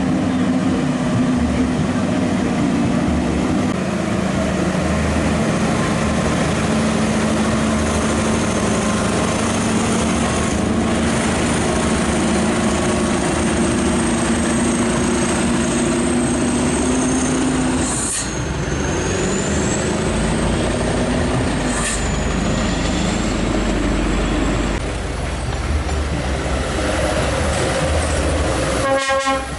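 Heavy truck on the road: a steady, loud engine note under road and wind noise, with the engine pitch shifting twice in the second half.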